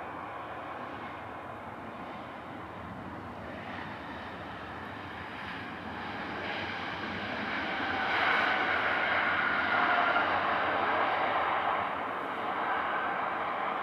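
Jet airliner passing close, its engine noise building from about six seconds in to a loud peak with a high whine, then easing a little near the end.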